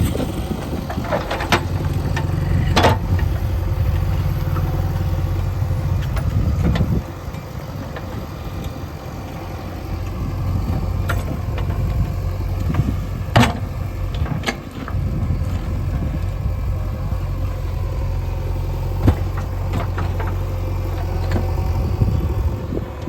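JCB 3DX backhoe loader's diesel engine running under working load. It eases off briefly about a third of the way through, then picks up again. Several sharp knocks stand out against it.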